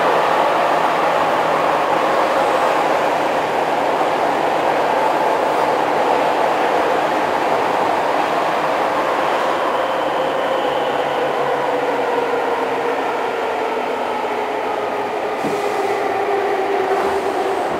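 Keihan 2600 series electric commuter train running, heard from inside the passenger car: a steady, loud rumble of wheels on rail with a whining tone that drifts slowly lower in pitch over the second half.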